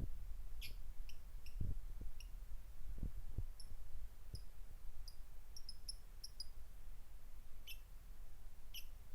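Jalak (starling) giving short, sharp, high chirps one at a time, with a quick run of them about five to six seconds in. A few low dull thumps are heard between the calls.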